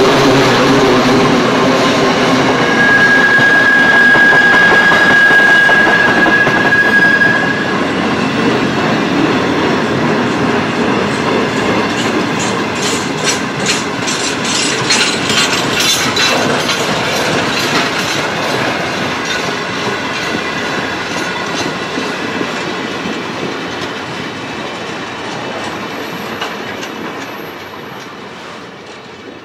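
Freight wagons of a steel train rolling past, their wheels clicking rhythmically over the rail joints, with a steady high wheel squeal for a few seconds near the start. The sound fades as the last wagon passes near the end.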